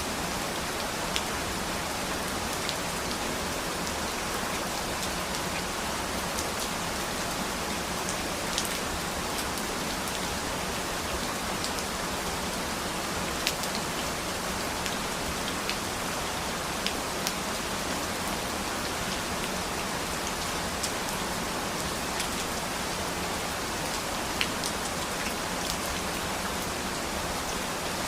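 Steady rain falling on a surface, an even hiss with the sharper ticks of single drops scattered throughout.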